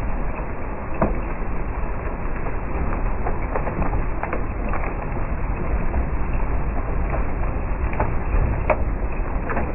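Heavy rain pouring with wind rumbling on the microphone, and irregular sharp ticks of small hailstones striking hard surfaces.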